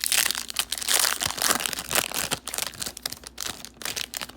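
Plastic wrapper of a 2013 Topps Platinum football card pack crinkling as it is torn open and pulled off the cards. The crackle is dense and irregular and stops near the end.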